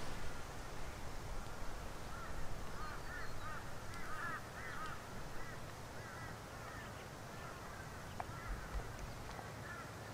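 Birds calling: a run of short, quick arched notes, repeated many times and fading out near the end.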